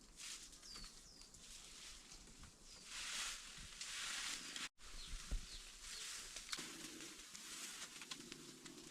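Rustling in swells, with a bird's short falling chirps repeated every second or two in the first half, and a few light clicks.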